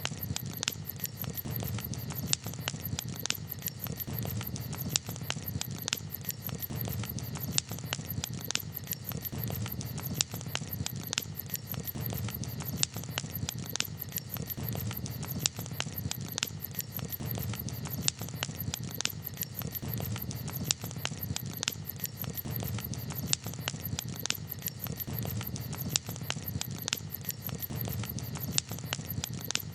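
Campfire crackling: irregular sharp pops and snaps, several a second, over a steady low rush of burning.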